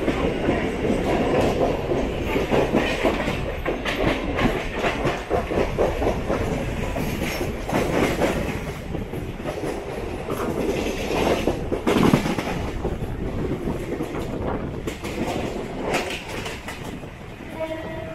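Mumbai suburban EMU electric train running, heard from aboard: a steady rumble with wheels clattering irregularly over rail joints and points, dying down near the end.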